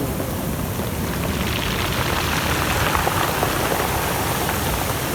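Steady rushing hiss of storm-driven surf and wind along the shore, growing a little louder about a second and a half in.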